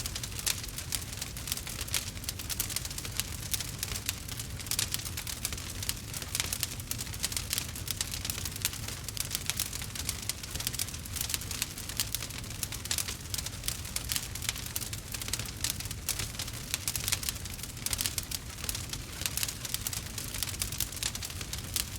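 Wood fire burning with a dense, continuous crackle of many small pops, over a steady low rumble.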